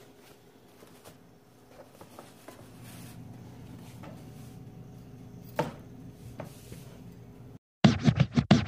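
Quiet handling of raw Arctic char in a kitchen: a hand works the wet fish pieces on a cutting board and tray, with soft squishing and a few light knocks, one sharper about five and a half seconds in. Near the end the sound cuts out and loud intro music starts abruptly.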